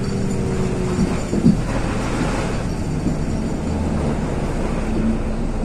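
Steady engine and road rumble inside a LiAZ 6213.22-01 articulated city bus on the move, with a few short knocks and rattles from the body, the loudest about a second and a half in and another about three seconds in.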